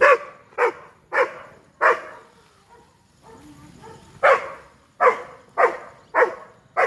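A dog barking repeatedly at a langur monkey up above, with loud sharp barks about one every 0.6 s: a run of four, a pause of about two seconds, then five more.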